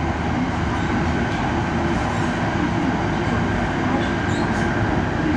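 Running noise heard inside the passenger cabin of an E5 series Hayabusa Shinkansen moving along the line: a steady low rumble with hiss above it and no distinct events.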